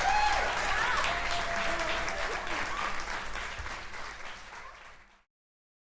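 Audience applauding, with a few voices calling out near the start; the clapping fades and cuts off to dead silence about five seconds in.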